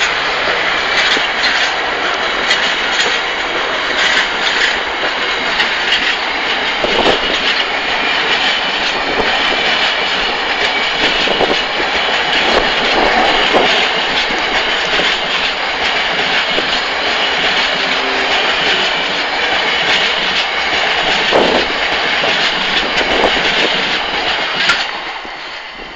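A freight train of bogie coal hopper wagons rolling past: a steady rumble of steel wheels on rail, broken by irregular clicks and clatters, dropping away near the end.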